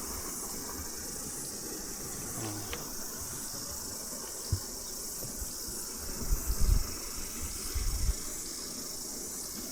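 Cicadas singing in a steady, high-pitched chorus over the rush of the creek, with a few low bumps about two-thirds of the way in.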